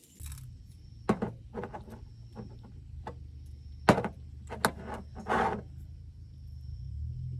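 Wooden knocks and clatter, about eight sharp strikes spread irregularly, the loudest about four seconds in, with a short scraping rattle just after, over a steady low rumble.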